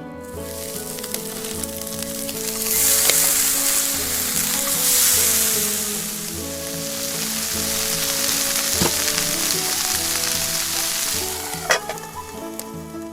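Food sizzling loudly as it fries in a hot pan, swelling twice in the first half, with a few sharp knocks of a utensil against the pan. Background music plays underneath.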